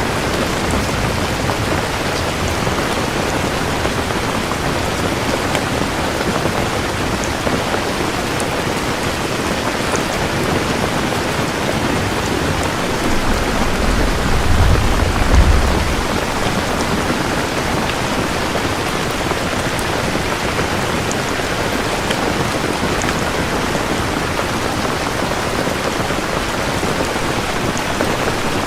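Steady rain falling, with a low rumble of thunder that builds and peaks about halfway through.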